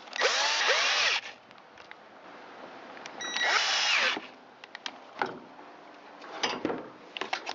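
Cordless drill-driver running in two short bursts about a second long and a few seconds apart, its motor pitch rising and falling as it drives screws home. Light clicks and taps follow near the end.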